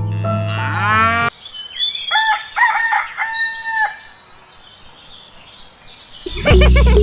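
A rooster crowing once, a drawn-out cock-a-doodle-doo of several pitched syllables, between music that ends with a rising glide about a second in and starts again near the end.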